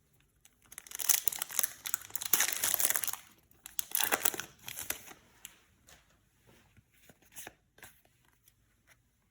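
Foil booster pack wrapper crinkling and tearing open in two long stretches, followed by scattered light clicks and rustles.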